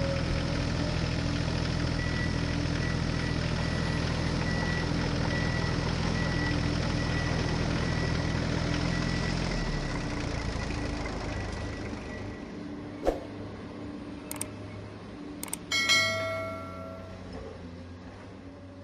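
Steady engine-like hum from a remote-control toy vehicle, with a thin high whine over it, fading out about ten seconds in. Near the end come a few sharp clicks and a short ringing chime.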